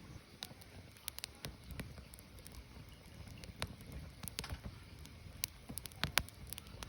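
Burning firewood crackling, with irregular sharp pops over a low rumble of the fire; the loudest pops come about six seconds in.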